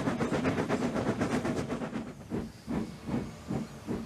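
Steam locomotive chuffing, at first in quick even puffs, then slowing to separate puffs a little over two a second as the engine slows down.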